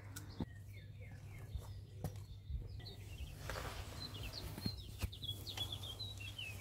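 Small songbirds chirping in short repeated calls, busiest in the second half, over a steady low hum, with a few faint single knocks like footsteps on stone steps.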